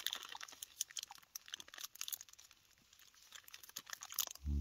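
A person chewing and crunching a piece of Belgian chocolate close to the microphone, a run of small crackly crunches, ending in a short low hummed "mm".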